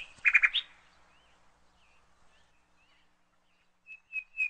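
Birds chirping: a quick run of short high calls at the start, a few faint chirps in the middle, then repeated calls again near the end.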